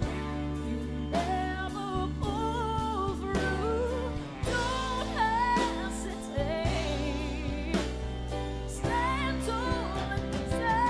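A woman singing a pop ballad live with a band, her held notes wavering with vibrato and breaking into quick runs over bass and a drum kit.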